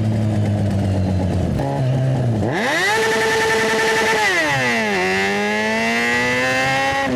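Yamaha FZ6 inline-four engine through a GPR Ghost aftermarket exhaust, running low and steady at first, then revving sharply upward about two and a half seconds in under hard throttle, holding high, dropping back, and climbing again steadily near the end.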